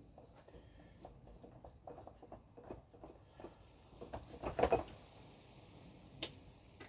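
Small clicks and scraping of a part being worked off an RC model truck dolly by hand, with a louder rattling scrape about four and a half seconds in and one sharp click near the end.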